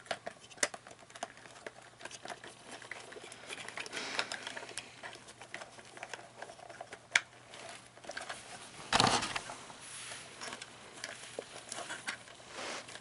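Small plastic parts of an animatronic figure being handled and fitted by hand: scattered sharp clicks and rustling as pins are worked back into the gear housing, with a louder clatter about nine seconds in.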